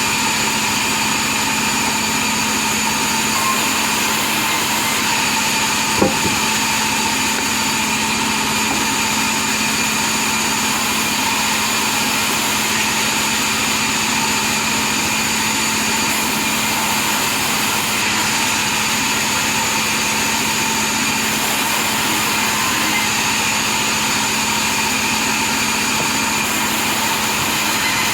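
Log-cutting sawmill machine running steadily, a constant motor hum and whine that does not change. One short click about six seconds in.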